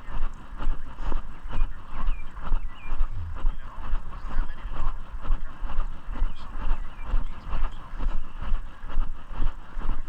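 Walking noise: footsteps and the jostling of a carried camera rise and fall in an even rhythm of a little under two steps a second, over a low rumble on the microphone.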